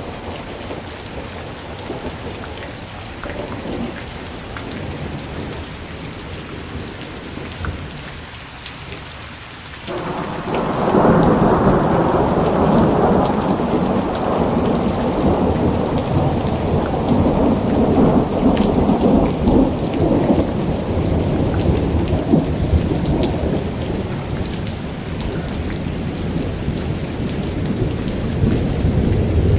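Thunderstorm: steady rain falling, with a long rumble of thunder that breaks in suddenly about a third of the way in and rolls on, easing off gradually near the end.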